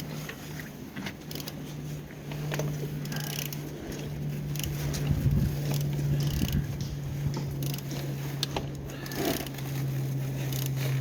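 A removed Opel/Vauxhall Z18XER 1.8 four-cylinder petrol engine being turned over for a check: a steady mechanical hum with scattered clicks and scrapes, growing louder about two and four seconds in. The engine turns freely, a sign it is not seized.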